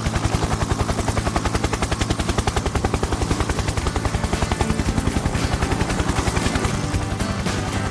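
Helicopter rotor chopping steadily, an even throb of about a dozen beats a second with a low drone beneath it.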